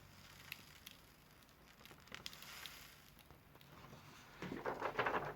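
Matches being poured into a small paper tube: a few light clicks, then about four seconds in, a short dense patter of little ticks as they tumble in.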